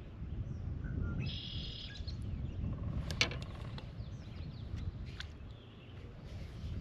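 Small birds chirping and calling around a lake shore, short calls and a buzzy trill, over a low steady rumble. A single sharp click about three seconds in.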